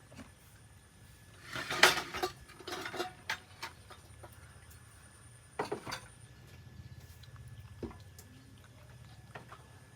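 Short clinks and clatters of small hard objects being handled, in a few bursts. The loudest comes about two seconds in, with more around three seconds and about six seconds in.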